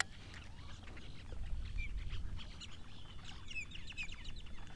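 A flock of birds calling: a running string of short chirps and downward-slurred notes, several overlapping, over a low background rumble.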